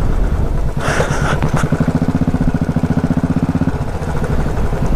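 Royal Enfield single-cylinder motorcycle engine running under way, with road and wind noise. A short hiss comes about a second in, and the engine note steadies for a couple of seconds in the middle.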